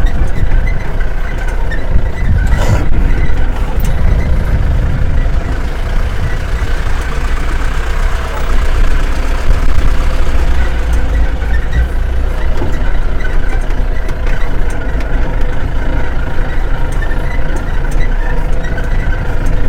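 Safari jeep's engine running as it drives along a rough track, heard from aboard as a steady loud rumble, with one knock about three seconds in.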